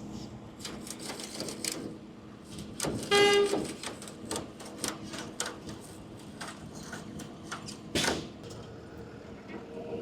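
A vehicle horn honks once, briefly, about three seconds in, over a low, steady engine hum. Light clicks and knocks run through, with a sharper knock later on.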